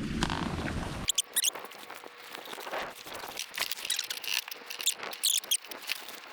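Scattered sharp clicks and short high-pitched squeaks, starting about a second in when the low wind and water noise cuts out.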